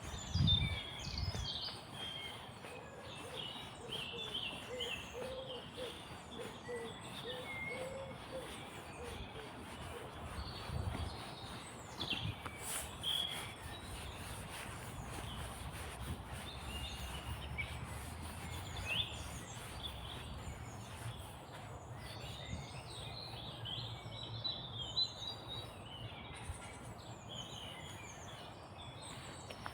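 Small songbirds chirping and singing, with many short calls and trills overlapping. For several seconds early on a lower call repeats at an even pace. A low steady rumble runs underneath.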